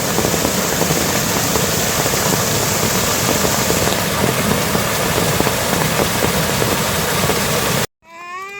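A loud, steady rushing noise with a low rumble beneath it, starting and stopping abruptly.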